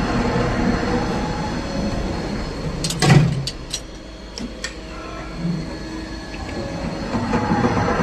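A machine running with a steady pitched hum. It breaks about three seconds in with a loud clatter and a few sharp clicks, then runs quieter and builds back up near the end.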